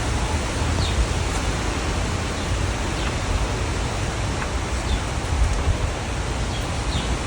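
Strong wind blowing outdoors, a steady rushing noise with gusty rumbling from the wind buffeting the microphone.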